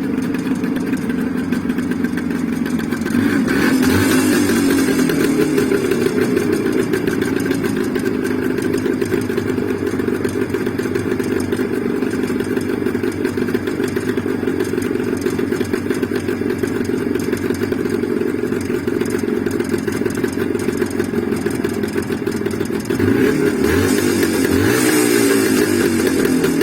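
Jawa 634 two-stroke twin engine running at idle, revved up briefly about three seconds in and again near the end. The title says that new Indian pistons fitted at 0.12 mm clearance in unbored cylinders make it ring.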